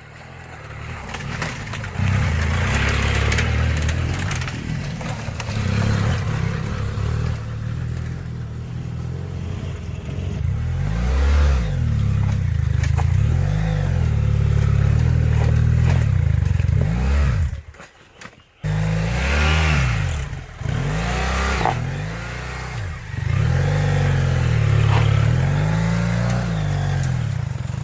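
Dual-sport motorcycle engines revving up and down over and over as they climb a rutted dirt hill, with clattering and scraping from the bikes. The sound drops out briefly about two-thirds of the way through.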